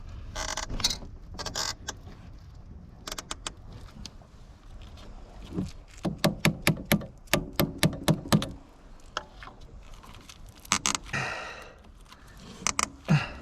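A series of sharp clicks and clinks, with a quick run of them at about four or five a second midway and a few scattered ones before and after.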